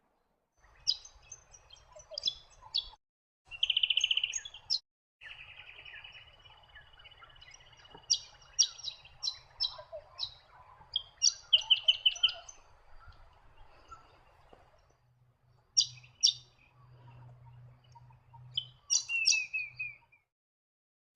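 Birds calling: sharp, rapid chirps and a couple of buzzy trills, in several short segments that start and stop abruptly.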